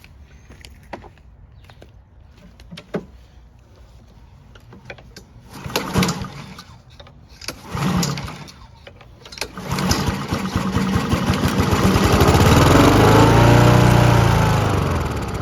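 Honda HRR216 lawn mower engine being pull-started: two short pulls, then it catches about ten seconds in and runs up in pitch before slowing and fading near the end. It fires and runs briefly, a sign of spark and compression, with the fault taken to be fuel not reaching the carburettor.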